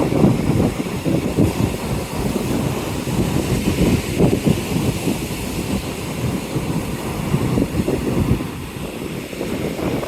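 Strong wind buffeting the microphone in an uneven rumble, over the noise of rough surf.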